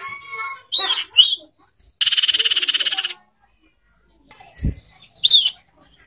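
Calls of a young sirtu bird: a clear two-note whistle, two sharp down-slurred chirps, then a dry buzzy rattle lasting about a second, with a short low thump and one more sharp chirp near the end.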